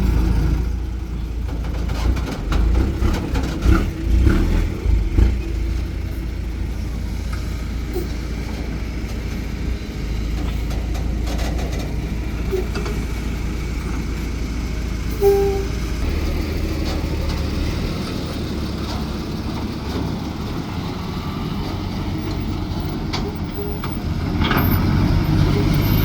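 Heavy truck or excavator engine running steadily, with a few uneven knocks in the first few seconds. It grows louder near the end.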